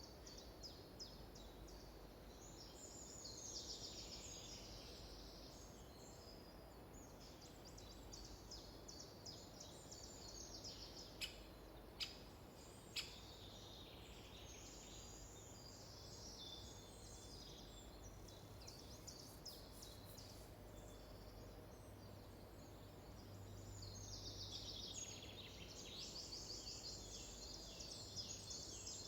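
Faint chorus of small songbirds singing in a forest, many quick high chirps and trills overlapping, swelling a few times. Three sharp clicks come about a second apart near the middle.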